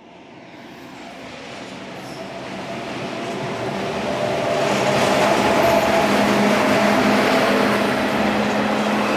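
Indian Railways express train approaching at speed, its rumble and wheel noise growing steadily louder over about five seconds, then holding loud and steady as it draws level.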